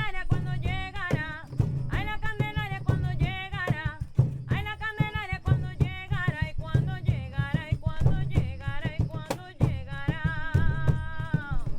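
A voice singing a melody over instrumental accompaniment with drum beats, ending in a long wavering held note near the end.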